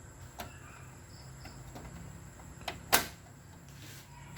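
Light clicks and handling taps as LED backlight strips are fitted inside an opened TV, with one sharp plastic click a little before the three-second mark, just after a smaller one.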